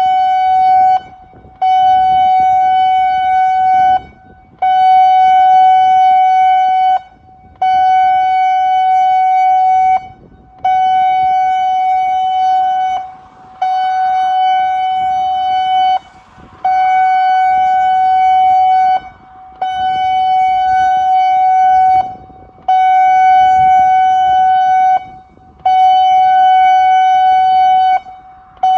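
Severnside warning siren sounding a test after repair: one steady tone switched on and off in a regular pulse, about two and a half seconds on and a short gap, repeating roughly every three seconds.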